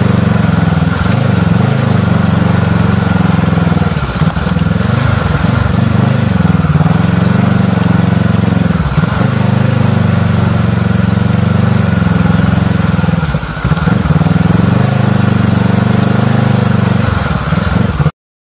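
Adventure motorcycle engine running at steady low revs while the bike is ridden slowly over loose dirt and rock. The engine note dips briefly three times, about four, nine and thirteen seconds in, then cuts off abruptly near the end.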